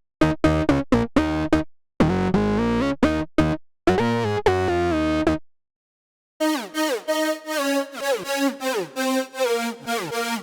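Omnisphere software synthesizer presets being played. It starts with short chord stabs, then two held chords, then pauses for about a second. Near the middle a new preset starts: quick plucked synth notes, each falling in pitch.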